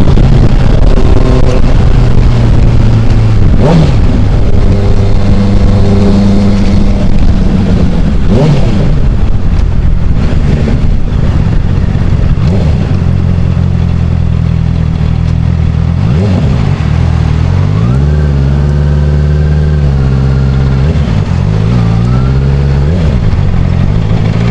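Motorcycle riding at highway speed, heard through an action camera's microphone as a loud, heavy low rumble. The engine's pitch rises and falls several times as it is ridden.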